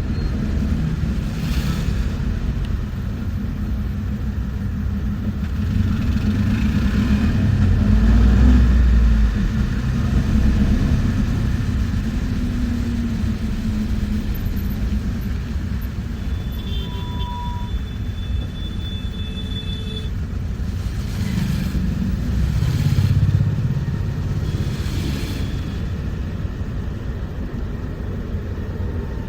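Bus interior on the move: a steady low rumble of engine and road, swelling louder about eight seconds in and again near the end, with a few faint rattles and clicks.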